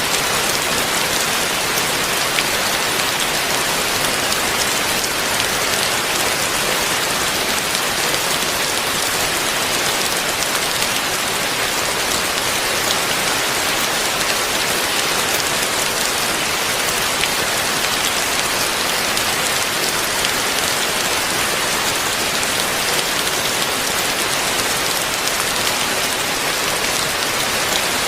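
Heavy rain falling steadily: a dense, even hiss of drops hitting surfaces, with no letting-up.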